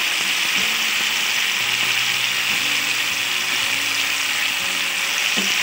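Boiled potatoes, green peas and spice paste sizzling steadily as they fry in a metal pan, with a few light knocks of a spatula in the pan.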